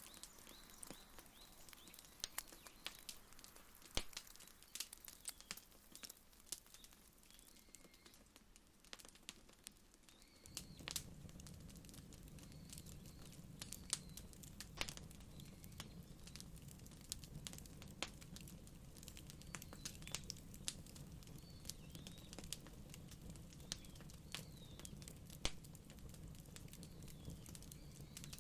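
Quiet wood fire crackling, with sharp irregular pops and snaps. Small birds chirp faintly in the background, and a low steady rumble sets in about ten seconds in.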